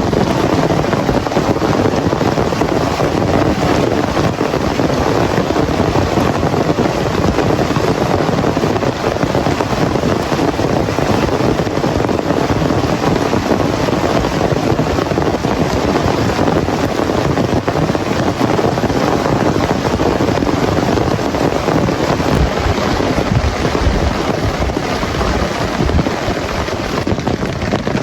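Heavy rain falling hard and steadily, loud and dense without a break, with a few low rumbles near the end.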